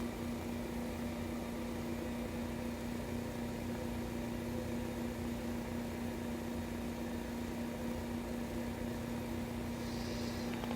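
Steady hum and fan noise from powered-up lab equipment, an atomic absorption spectrophotometer and its computer idling after start-up, with a constant low tone under an even whoosh.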